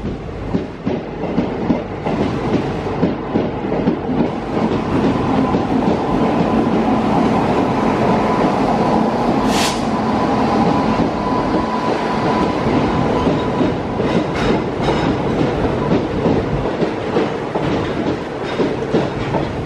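Military special train hauled by an Indian Railways WAG-9 electric locomotive running past at close range: a loud steady rumble of wheels clattering over the rail joints as the locomotive and then the flat wagons go by. About halfway there is one short, sharp metallic noise.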